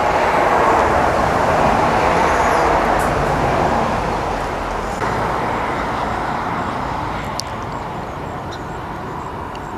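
Steady road traffic noise, an even wash of passing vehicles that eases off a little over the seconds.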